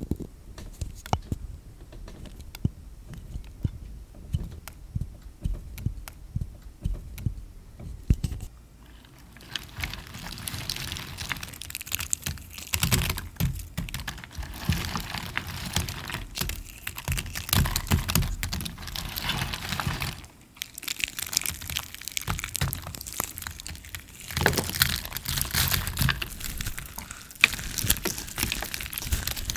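Close-miked hand-washing with a soapy lather: wet squishing and crackling foam in several long stretches, after about nine seconds of sparse clicks and taps.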